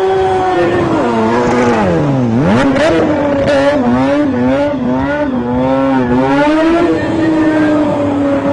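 Stunt motorcycle engine revving: it holds a steady rev, drops sharply in pitch about two seconds in and climbs back, then blips up and down repeatedly as the throttle is worked, with a few short tyre scrapes around the third second.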